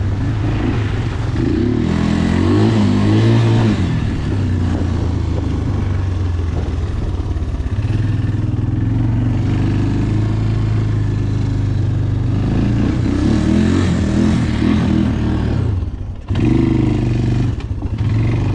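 A 250cc four-wheeler (ATV) engine running while being ridden. It revs up and eases off twice, and briefly drops away near the end.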